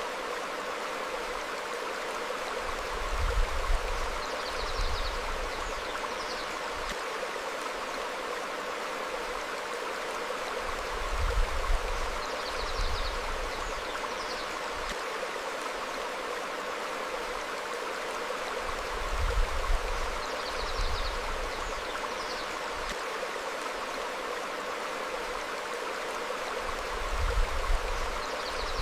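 Stream flowing steadily over rocks, with a low rumble swelling up about every eight seconds, four times in all, and a couple of faint high bird chirps alongside each rumble.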